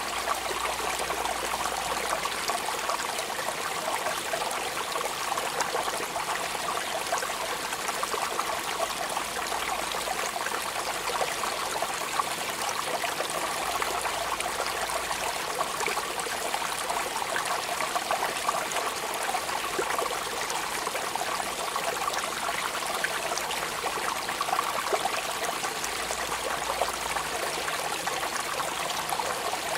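Steady rain falling: an even, unbroken hiss dotted with many fine drop ticks.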